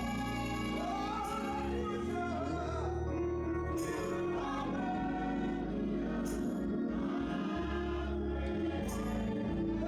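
Choir singing gospel music over sustained instrumental accompaniment with held bass notes.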